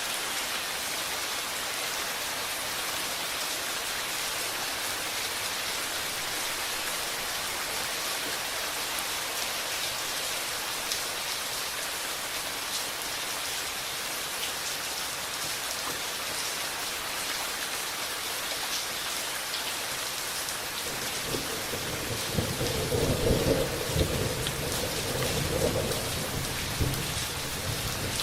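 Steady rain falling, an even hiss. Near the end a roll of thunder rumbles for several seconds under the rain.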